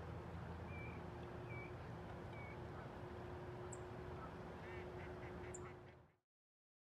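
Faint duck calls over a steady low rumble: three short quacks about a second in, then a quick run of short calls near the end, with a couple of high bird chirps. The sound then cuts off abruptly.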